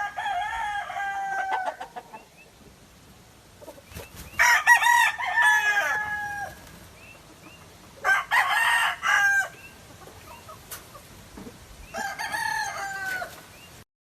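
Gamefowl roosters crowing: four full crows, one about every four seconds, each rising, holding and falling away.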